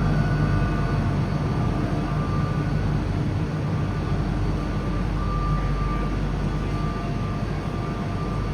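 Automated Skytrain people mover running, a steady low rumble with rolling noise and a faint steady motor whine.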